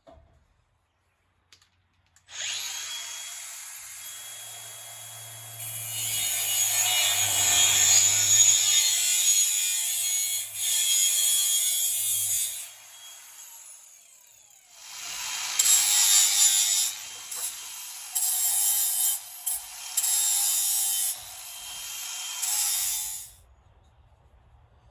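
A power tool runs in two long spells, the first from about two seconds in and growing louder partway through, the second after a short pause. It has a hissing high-pitched sound with a steady whine and cuts off shortly before the end.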